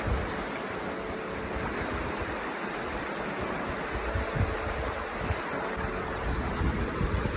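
River water rushing steadily, with wind buffeting the microphone in low gusts.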